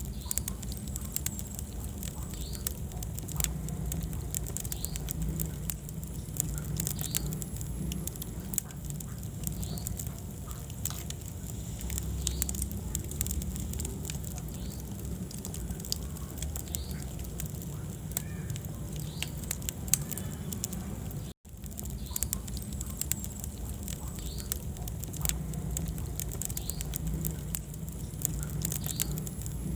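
Wood fire burning in a fireplace: a steady low rumble of flames with frequent sharp crackles and pops. The sound cuts out for an instant about two-thirds of the way through.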